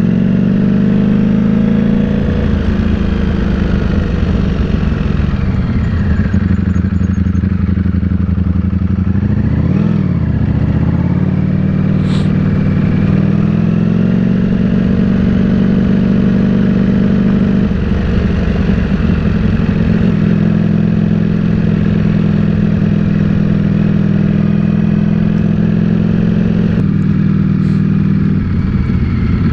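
Ducati Panigale V4 S's V4 engine running at a steady pace while riding, with a brief rise and fall in pitch about ten seconds in, then steady again.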